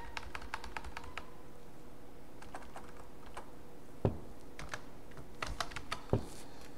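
Typing on a computer keyboard: short runs of quick keystrokes with pauses between them, and two heavier knocks about four and six seconds in. A faint steady hum runs behind.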